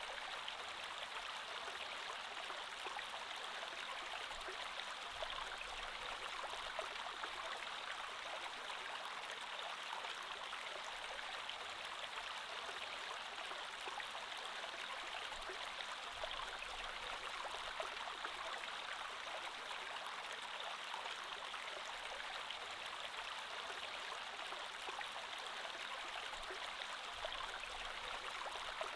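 Creek water flowing steadily over stones, an even babbling rush with fine splashing texture.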